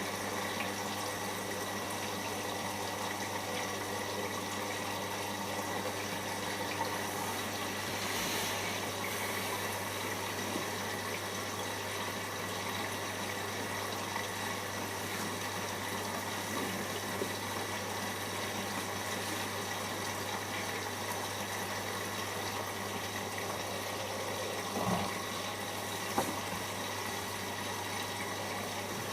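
Siemens iQ front-loading washing machine taking in water for its first rinse: a steady rush of water over a low hum, with a couple of brief knocks near the end.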